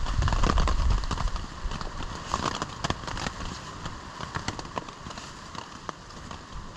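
Wind buffeting the microphone in the first second, then fading, with scattered sharp ticks and taps throughout that thin out towards the end.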